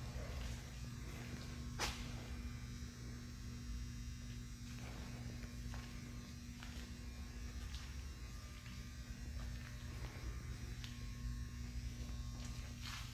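Vacuum truck running: a steady low buzzing drone, with a sharp click about two seconds in and another near the end.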